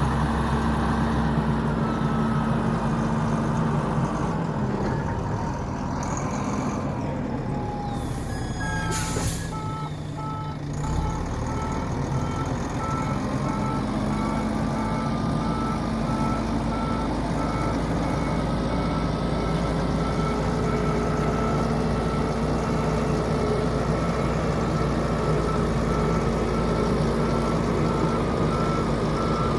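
The Volvo A25 articulated dump truck's six-cylinder diesel engine running, its engine speed changing for a few seconds near the start. About nine seconds in there is a brief hiss, and from then on the truck's backup alarm beeps steadily as it reverses.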